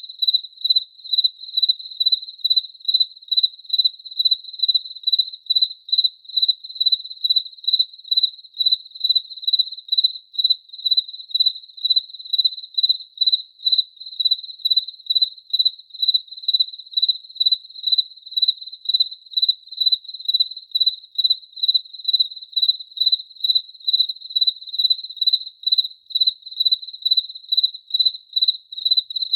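Cricket chirping in an even, unbroken rhythm of about two to three high chirps a second.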